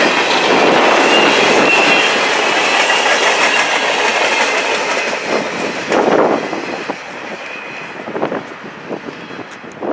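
Freight train of empty coal cars rolling past, wheels clacking over rail joints, with a thin high ringing from the wheels in the first couple of seconds. The noise fades from about four seconds in, leaving scattered clacks as the end of the train moves away.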